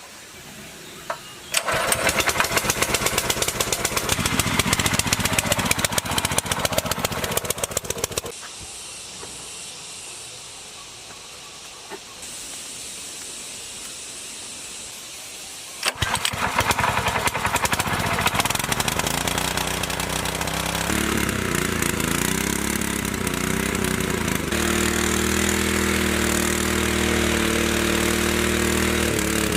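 Small single-cylinder engine of a walk-behind tiller running as it works the field, with a fast pulsing exhaust beat. It drops away to a quieter background for several seconds in the middle, then comes back and settles into steadier running, shifting pitch a couple of times.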